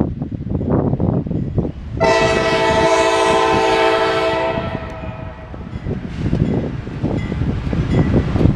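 A CSX freight locomotive's multi-tone air horn sounds one long blast, starting about two seconds in and fading out about two and a half seconds later. Underneath it the intermodal train rumbles past with steady wheel-on-rail clatter.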